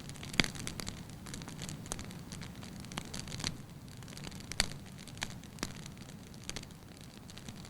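Wood logs burning in a fireplace, crackling with irregular sharp pops over a low steady rush of flame; the loudest pops come about half a second in and just past the middle.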